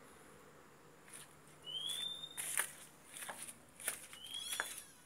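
A bird calls twice, each call a short rising whistle, about two and a half seconds apart. Scattered light clicks and taps sound between the calls.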